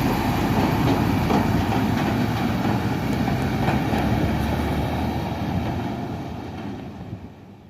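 Dump truck loaded with stones driving past, a heavy dense rumble that fades away over the last two seconds or so.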